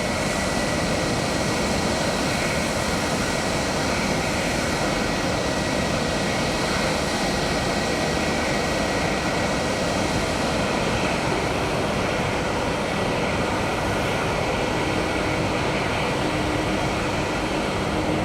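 Jet airliner engines running steadily, an even noise with a faint steady whine.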